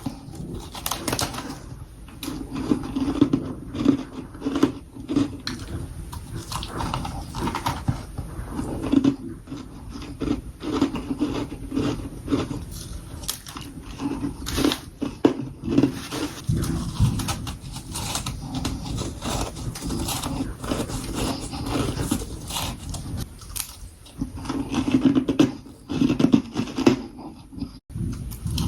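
A person biting and crunching mouthfuls of freezer frost close to the microphone: a dense, irregular run of crisp crunches that goes on without a break.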